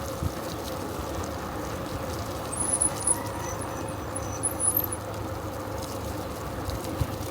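Bicycle riding along a road: steady tyre and wind noise, with a string of faint, very high chirps in the middle.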